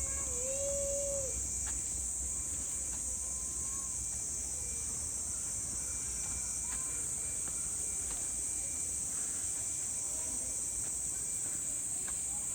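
A steady, high-pitched chorus of summer insects that drones on without a break. A short pitched call, about a second long, bends in pitch at the very start.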